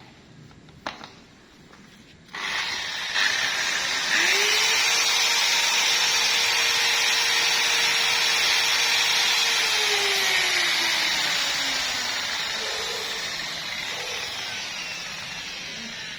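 Electric car polishing machine starting up about two seconds in, its motor whine rising and then holding steady as it buffs the hood paint for the second polishing step. Past the middle the whine falls and the sound slowly fades.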